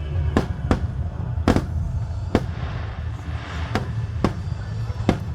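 Fireworks bursting overhead: about seven sharp bangs at uneven intervals over a steady low rumble.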